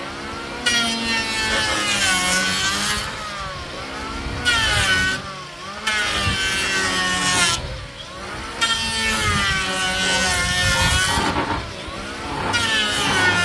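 A power saw running in repeated cutting bursts of a second or two, its motor pitch sagging and recovering within each cut, with short pauses between.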